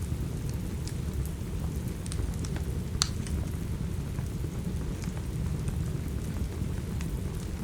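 Steady rain with a dense low rumble underneath, and the sharp pops and crackles of a wood fire scattered through it; the loudest pop comes about three seconds in.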